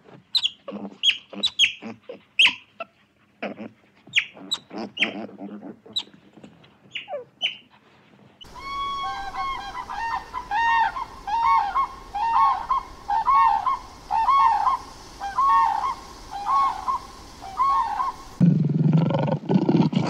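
Otters give short high chirps and squeaks for about the first eight seconds. A common crane then calls repeatedly: about a dozen rising-and-falling trumpeting calls. Near the end, lions begin to roar.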